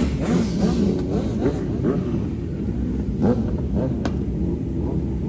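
Motorcycle engines running in a low, steady rumble, with some rising and falling pitch in the first two seconds, and a sharp click about four seconds in.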